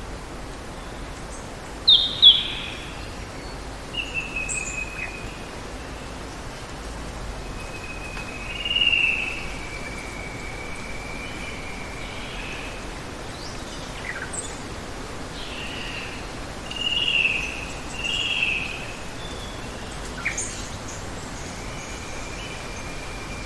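Wild birds calling over a steady hiss of running water: two sharp loud notes about two seconds in, a long drawn-out whistle around the middle, and a pair of short calls later on.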